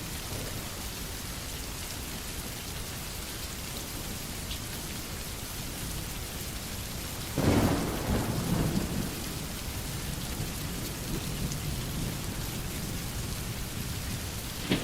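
Steady rain falling, with a sudden clap of thunder about halfway through that rumbles off over a couple of seconds. A second thunderclap breaks in right at the end.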